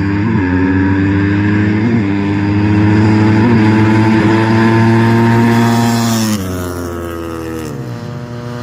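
Four-stroke motocross bike engine accelerating hard at high revs, its pitch climbing slowly with a few brief dips. About six seconds in the throttle is shut and the revs fall away, dropping again shortly after.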